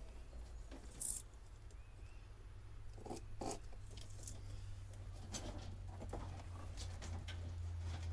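Scattered small clicks and rustles from handling and pulling old boat wiring, over a steady low hum.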